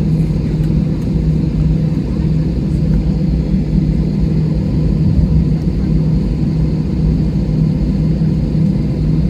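Steady low drone of an airliner cabin while the aircraft holds on the ground with its engines idling, an even hum with no change in pitch or level.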